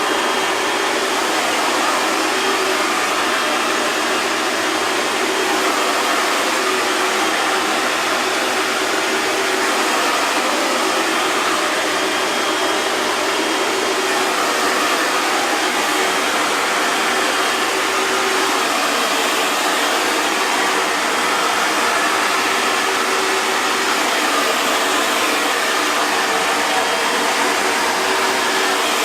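Hair dryer running continuously: a steady rush of blown air over a faint constant motor hum, unchanging throughout.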